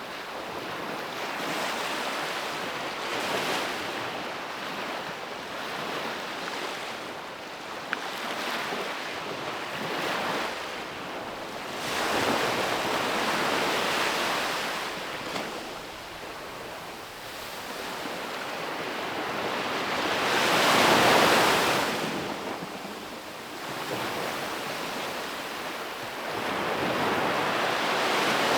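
Ocean waves breaking and washing up on a beach, the surf swelling and fading every few seconds, with the loudest break about two-thirds of the way through. Light wind buffets the microphone.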